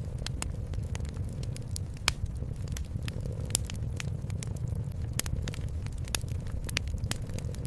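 Wood fire crackling, with sharp, irregular pops, the loudest about two seconds in and again a second and a half later, over a steady low cat purr.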